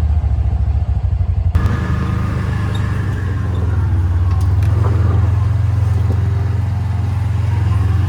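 A vehicle engine running steadily just after being started, a loud, low, even throb. About a second and a half in the sound changes abruptly and more hiss joins it.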